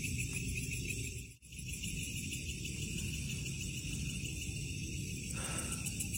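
Steady high-pitched chorus of night insects, fine and rapidly pulsing, over a low rumble. The sound drops out briefly about a second and a half in.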